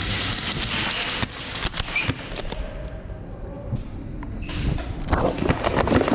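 Irregular sharp clicks and knocks, growing denser and louder about five seconds in.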